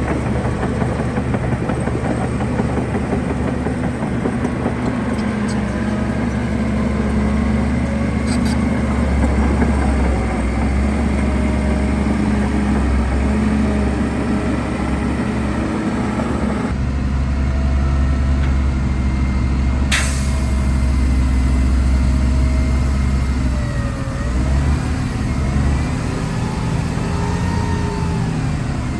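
Heavy diesel earthmoving machinery running steadily under load. The sound changes abruptly about seventeen seconds in, a sharp click comes about twenty seconds in, and near the end a whine rises and falls.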